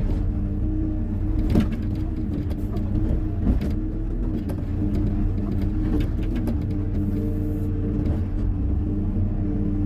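Hyundai 140 wheeled excavator's diesel engine running steadily under working load, with a few short knocks from the machine at work.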